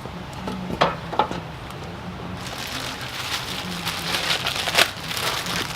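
Rustling, crinkling handling noise with a few light knocks and clicks, growing into a steady hiss-like rustle about halfway through.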